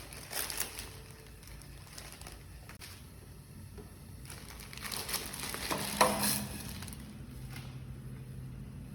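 Irregular crinkling and rustling, like something being handled, with scattered clicks and a sharper, louder click about six seconds in.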